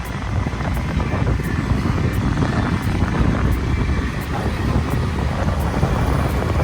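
Motorbike engine running steadily under way, a continuous low rumble mixed with rushing wind noise.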